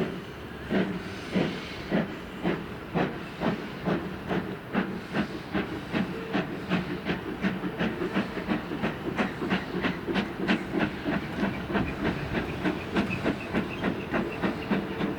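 BR Standard Class 2 2-6-0 steam locomotive pulling away, its chuffing exhaust beats quickening steadily from about two to about four a second, over a steady hiss of steam.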